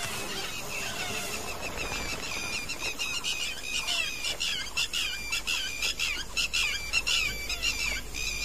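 Birds chirping, many short repeated calls overlapping in a busy chorus that grows denser about two seconds in, over a low steady rumble of background ambience.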